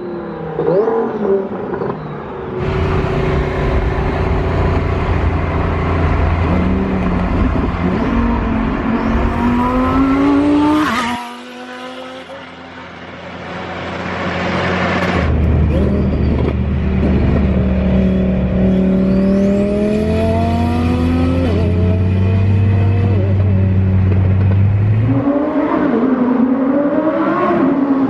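Twin-turbo 5.2-litre V10 of a Lamborghini Huracán Performante accelerating hard, its note climbing steadily in pitch. About eleven seconds in the engine lets off briefly, then it pulls up through the revs again. A faint high whistle rises along with each pull.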